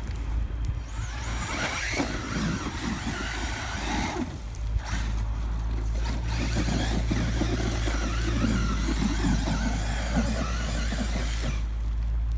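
Electric RC monster truck (Losi LST XXL2-E) running its brushless motor, whining as its tyres spin and churn loose dirt while it is dug in; only the rear wheels are driving because the front wheels are getting no power.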